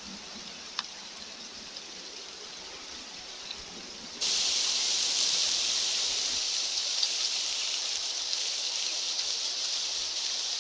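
Outdoor ambience: a faint, steady hiss with a faint click just under a second in, which jumps abruptly to a much louder, higher hiss about four seconds in, as at an edit, and stays steady from there.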